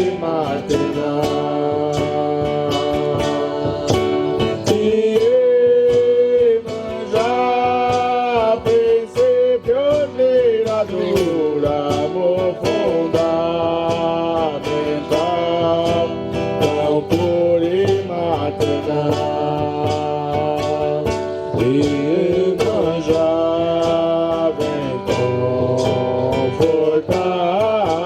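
Music: a voice singing a slow, gliding melody over a steadily strummed guitar.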